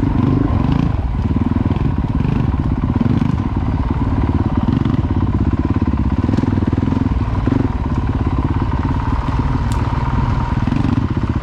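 Honda CRF450L-type dual-sport motorcycle's single-cylinder four-stroke engine running steadily at low speed, with small swells in engine speed.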